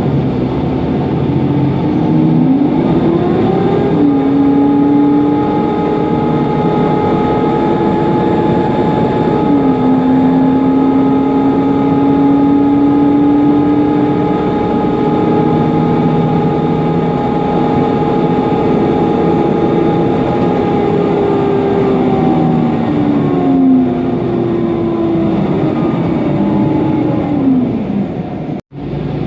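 Inside a Mercedes-Benz Conecto NGT city bus: its OM 936 G natural-gas engine running with a loud whining cooling fan. The tones climb about two to four seconds in, hold for a long stretch, and wind down over the last several seconds as the bus speeds up, cruises and slows. The sound cuts out briefly near the end.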